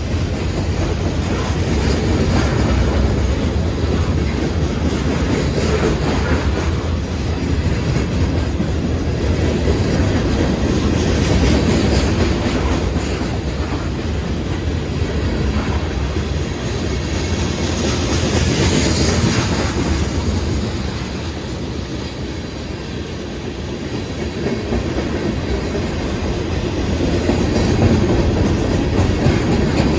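Union Pacific manifest freight train passing close by at speed: a steady rumble of the cars' wheels on the rails, with a rhythmic clickety-clack over the rail joints.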